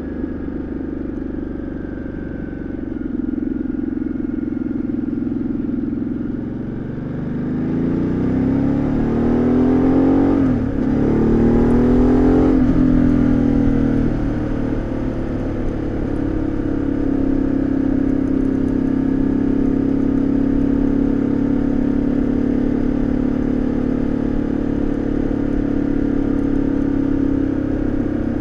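Ducati Multistrada 1200S twin-cylinder engine and exhaust heard from the rider's seat. It runs steadily, then about a quarter of the way in it accelerates with the pitch rising, breaks briefly for a gear change, rises again, drops, and settles into a steady cruise for the rest of the time.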